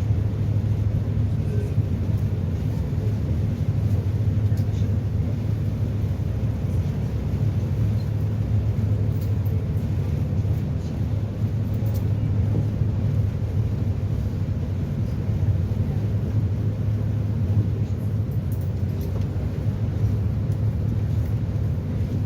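Steady low drone of a passenger catamaran ferry's engines, heard on board while under way.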